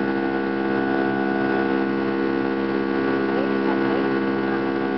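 Airliner cabin during the climb: the engines' steady drone, many even tones held at a constant level.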